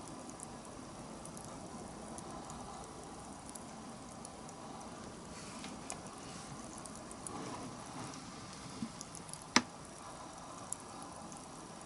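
Wood fire burning with a soft continuous crackle and hiss, scattered small ticks, and one sharp loud pop about two-thirds of the way through.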